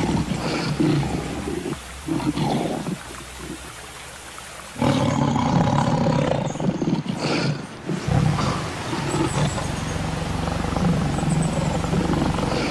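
Big-cat roars and growls, repeated, dropping quieter for a few seconds and then loud again from about five seconds in.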